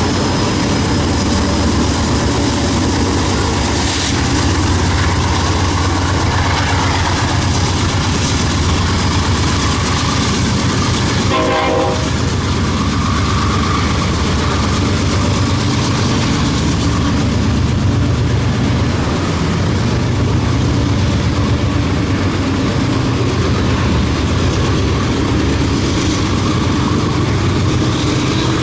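Diesel-hauled BNSF freight train passing close by: steady locomotive engine rumble and the continuous noise of wheels running over the rails. A brief horn note sounds about twelve seconds in.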